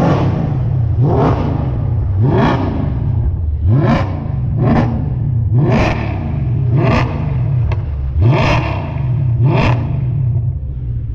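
A car engine revved in repeated quick throttle blips, about nine in a row, each one rising sharply in pitch and dropping back to a rumbling idle.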